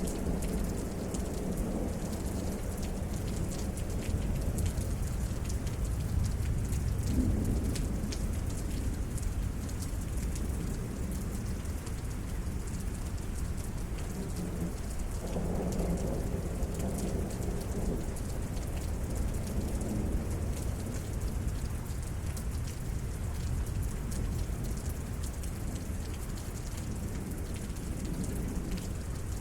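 Steady rain falling during a thunderstorm, with low rolling thunder rumbling and swelling a few times, most strongly about halfway through.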